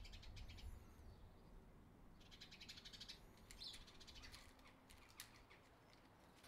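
Faint birdsong: high chirps, a rapid trill about two seconds in and scattered short calls, over a low background rumble.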